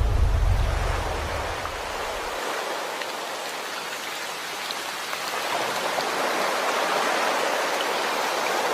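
Steady, even hiss like rain or rushing water. A deep low rumble fades out over the first two seconds.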